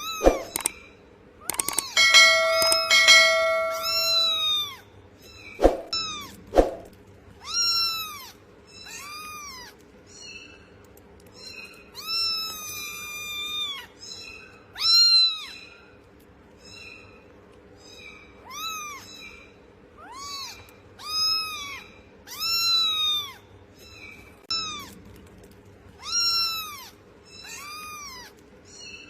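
Cat meowing again and again, about once a second, each call rising and falling in pitch; one call about 12 seconds in is drawn out for nearly two seconds. Before the meowing, a steady held tone sounds for about two seconds starting two seconds in, followed by two sharp knocks around six seconds in.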